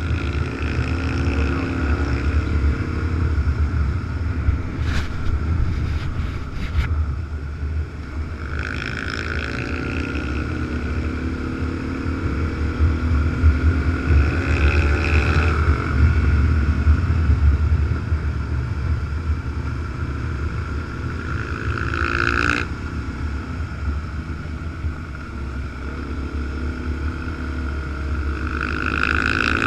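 Motorcycle underway on a wet highway: a steady low wind rumble on the microphone over engine and tyre noise, the engine pitch slowly rising and falling with speed. A few light clicks come about five to seven seconds in.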